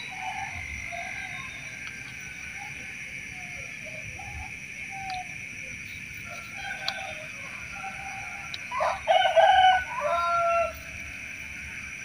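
A bird calls loudly once, starting about nine seconds in and lasting about two seconds, ending on a held note. A steady high hiss runs underneath, with a few faint scattered calls earlier.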